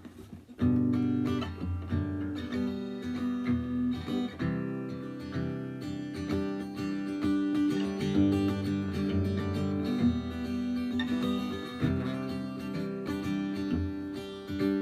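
Guitar played through a Traynor TVM15 amplifier: the instrumental intro of a song, starting about half a second in.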